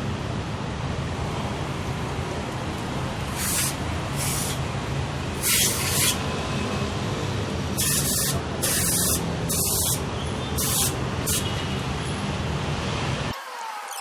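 Datsun Go Plus engine running steadily while an aerosol engine cleaner is sprayed in about eight short hisses, part of a combustion-chamber cleaning. The engine's low running sound stops suddenly near the end.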